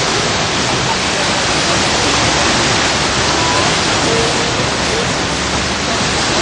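Steady, loud rushing noise, even throughout.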